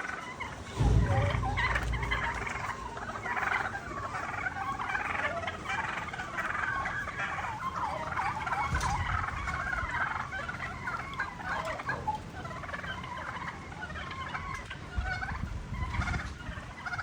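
Many birds calling together in a dense, continuous chatter, with a low rumble about a second in and again near the end.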